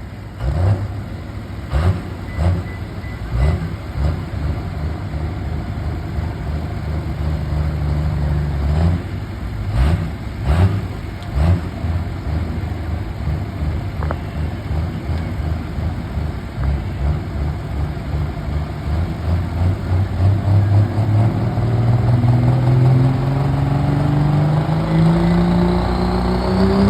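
Big engine of a pulling truck or tractor running at low revs, with sharp cracks through the first dozen seconds. From about twenty seconds in it revs up steadily, climbing in pitch.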